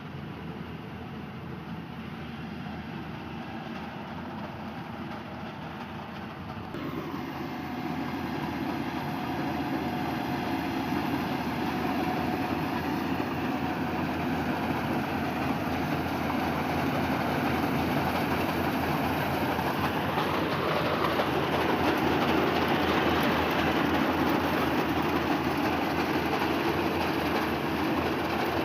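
Engine-driven machine running steadily, stepping up in loudness about seven seconds in and growing louder toward the middle.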